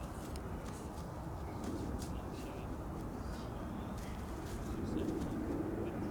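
A pigeon cooing softly, several low calls, over a steady low rumble that grows slightly louder toward the end.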